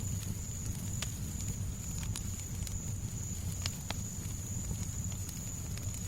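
Fireplace fire crackling, with irregular sharp pops and snaps over a steady low rumble, and a thin constant high-pitched tone underneath.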